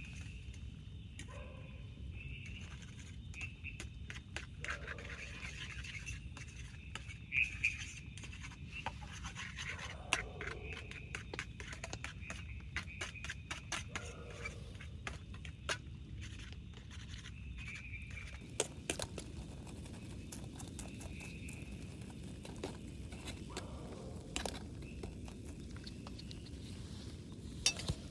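Scattered light clicks, taps and scrapes of camp gear or cookware being handled, with a few louder knocks, over a steady low rain noise.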